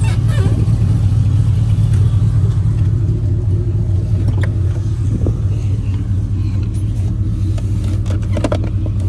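A vehicle engine idling steadily, a continuous low rumble, with a few faint clicks over it.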